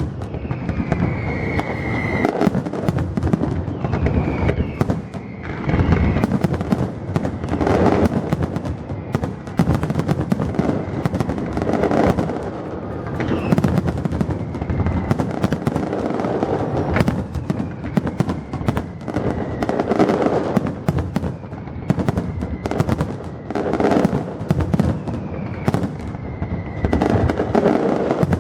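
A fireworks display going off continuously: a dense run of bangs and crackles, with high whistling tones from shells now and then.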